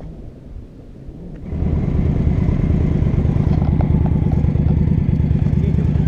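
A motorcycle engine starts about a second and a half in and settles into a steady idle.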